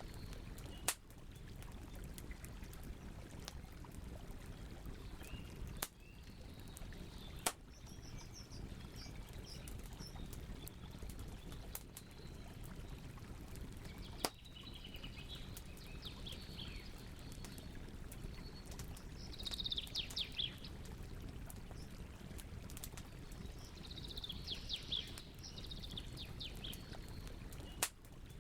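Campfire burning with a steady low rustle and a few sharp pops, about five of them spread through. Over it, birds call in short bursts of quick chirps every few seconds; the loudest bursts come about two-thirds of the way in and near the end.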